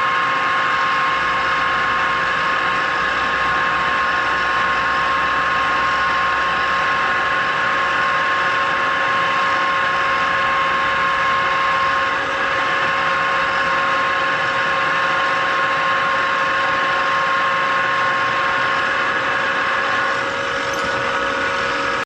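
Electric drill motor running steadily with a constant whine while drilling bolt holes through a metal adapter plate.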